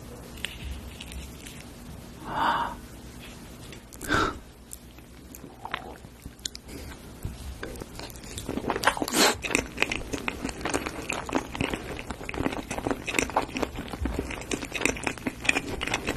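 Close-miked mouth sounds of eating baked avocado with egg: two short soft sounds in the first few seconds, then a spoonful goes in about halfway and dense, wet, clicky chewing follows.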